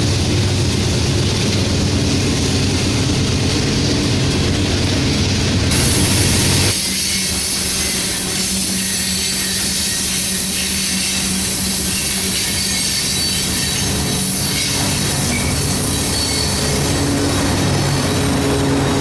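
A train rolling past on the rails: a loud, steady rumble of wheels and cars. The sound changes abruptly about six to seven seconds in, as at a cut between clips.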